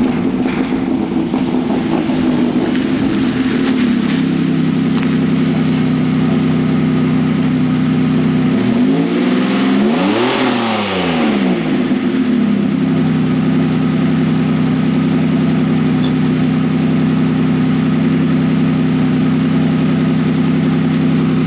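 1992 Toyota pickup's 3.0-litre V6 idling through a full 3-inch exhaust with a one-chamber Flowmaster muffler and 3-inch tailpipes. About halfway through it is revved once, the pitch rising and falling back to a steady idle.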